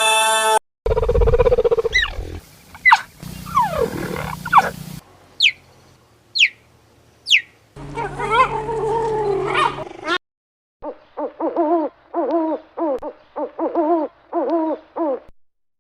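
A string of different animal calls cut back to back. The tail of a rooster's crow comes first, then a low rough call, three short falling whistles, another drawn-out call, and near the end a fast run of about nine repeated calls.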